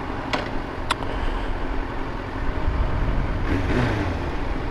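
Yamaha FZ1's inline-four with an aftermarket exhaust running while riding in city traffic, getting a little louder about three seconds in. Two short sharp clicks in the first second.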